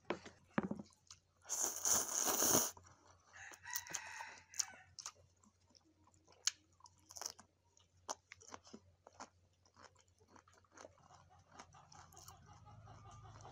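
Close-miked chewing and crunching of fresh cucumber slices and rice noodles, heard as a scatter of short crisp crunches. A louder rasping burst of noise lasts about a second, near two seconds in.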